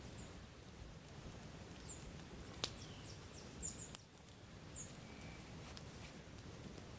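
Faint outdoor ambience with a handful of short, high, falling bird chirps every second or two and a couple of sharp clicks about midway, over a steady high hiss.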